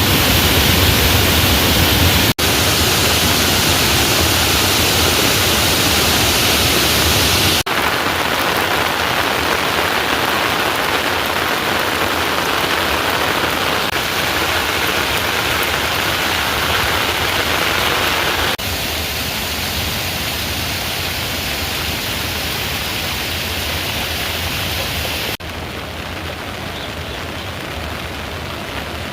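Heavy rain falling, a steady loud hiss. It breaks off for an instant several times and comes back a little quieter, most clearly about two-thirds of the way in and again near the end.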